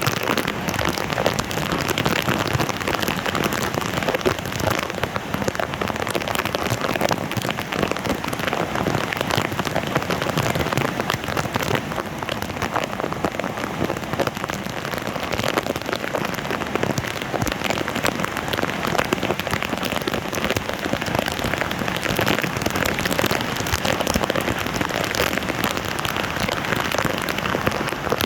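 Steady, dense splashing of water on a flooded street.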